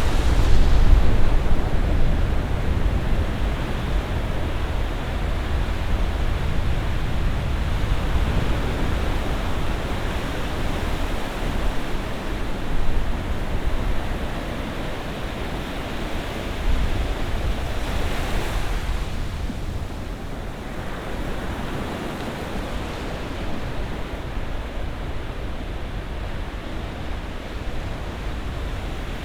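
Ocean surf, a continuous rushing of waves, with a wave breaking louder at the start and another a little past halfway.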